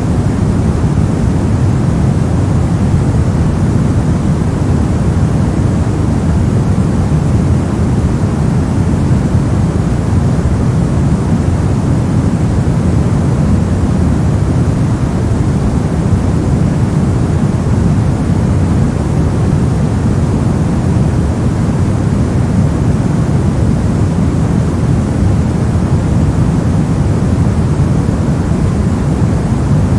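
Steady electronic white noise played as a sleep and focus sound: an even, unbroken rush with most of its weight in the low range, not changing at all.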